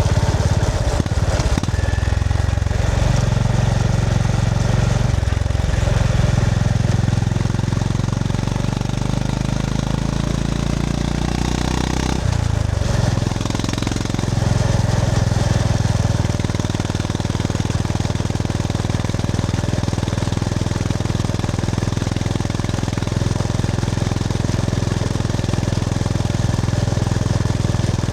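Honda GB350S's air-cooled single-cylinder engine running under way. It climbs in pitch for several seconds, drops sharply about halfway through, then holds a steady note.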